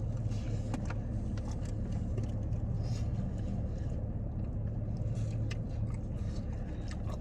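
A person biting into and chewing a fried sambusa, with scattered faint crunches, over a steady low engine hum.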